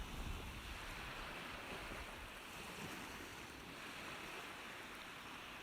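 Ocean surf washing in a steady noisy wash, with a low rumble that fades out within the first second.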